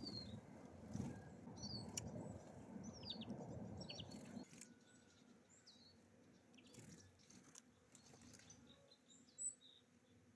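Small songbirds at a feeder chirping faintly, in short high calls scattered through, with a few soft taps. A low background rumble drops away about four and a half seconds in.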